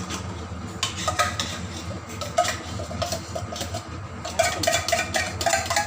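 A metal spoon stirring chicken in tomato gravy, clinking and scraping against the pot in irregular strokes over a low steady hum.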